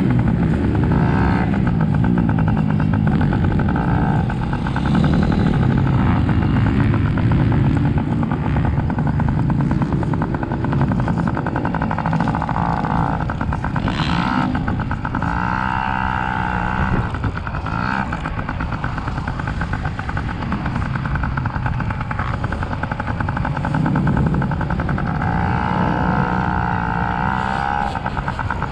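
Dirt bike engines revving up and down, their pitch rising and falling over and over as the bikes accelerate and shift.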